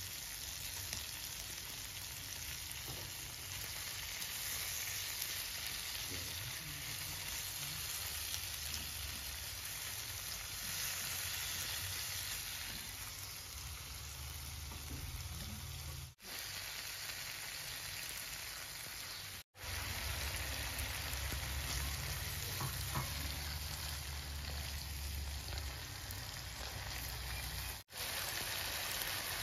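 Chili-tomato sambal sizzling as it fries in oil in a nonstick wok, a steady sizzle that cuts out briefly three times.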